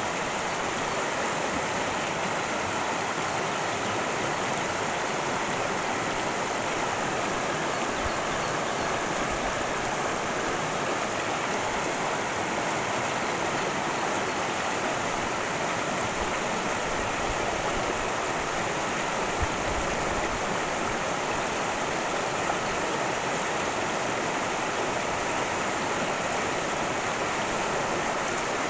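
Cascading creek water rushing steadily.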